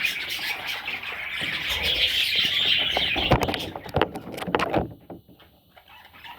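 Budgerigars chattering and chirping steadily. Near the middle, the chatter gives way to a few sharp taps, and then it goes much quieter.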